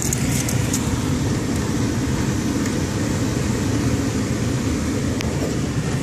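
Steady rush of a car's defroster blower and idling engine heard from inside the cabin, with a few light clicks near the start and one about five seconds in.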